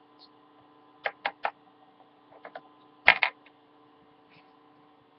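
Hard plastic Littlest Pet Shop toy figurine's feet tapped on a hard surface: three quick clicks a little after a second in, two faint taps, then a louder double tap about three seconds in.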